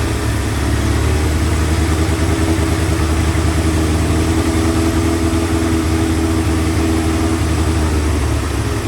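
Motorcycle engine idling steadily on a bike whose owner is hunting for a vacuum leak.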